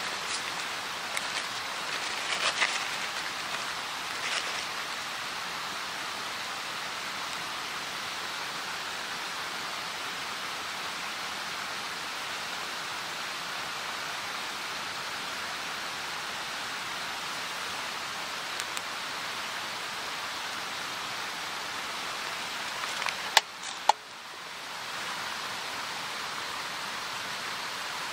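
Steady rain falling, an even hiss of drops, with two sharp clicks about three-quarters of the way through.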